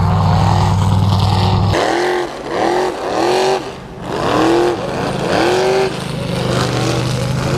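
High-powered truck engine running loudly, a steady drone for about the first two seconds, then revving up and down in quick repeated rises and falls, about one a second.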